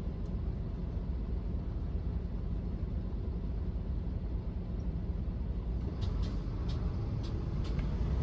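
Car driving, heard from inside the cabin: a steady low rumble of road and engine noise, with a few faint ticks near the end.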